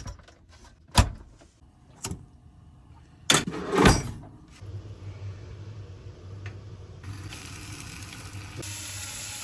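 Van doors and latches clunking a few times, then the VW LT 35 camper van's engine starting with a louder burst about three seconds in and running with a steady low hum.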